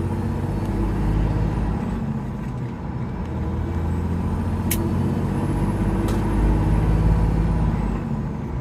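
Semi-truck's diesel engine, with over a million miles on it, running steadily at cruise, heard from inside the cab with road noise; a smooth, even drone that the driver calls running like a baby. Two short clicks sound about halfway through.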